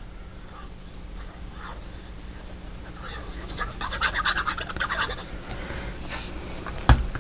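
Paper and fabric pieces rubbed, scratched and rustled by hand while being pressed down, growing busier after a few seconds, with a short high hiss about six seconds in. Near the end a sharp knock as the bottle of Fabri-Tac glue tips over.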